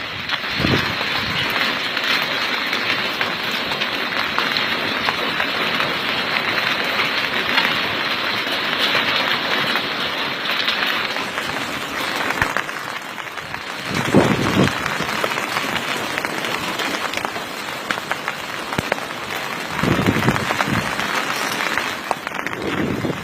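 Hailstones pelting down in a dense, steady clatter of countless small impacts, with a few brief low swells about two-thirds of the way through and again later.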